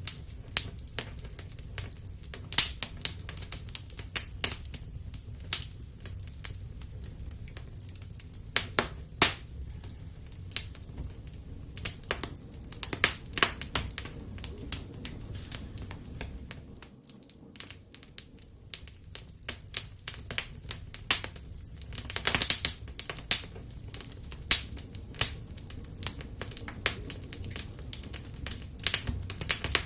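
Wood fire in a fireplace crackling, with irregular sharp pops and snaps over a low, steady rumble of the flames; the pops come thickest in a quick flurry about two-thirds of the way through.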